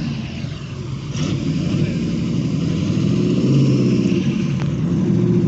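TVR Griffith's V8 exhaust running, a deep pitched rumble with the revs climbing a little around the middle.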